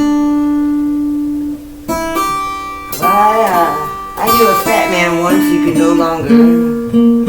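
Acoustic guitar played with strummed chords that ring and fade. A wordless sung vocal line with gliding pitch joins over the guitar about three seconds in.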